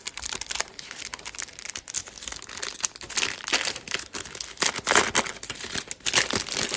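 Foil wrapper of a baseball card pack crinkling and tearing as it is ripped open by hand. It goes in a run of sharp crackles, loudest about three and five seconds in, along with cards being handled.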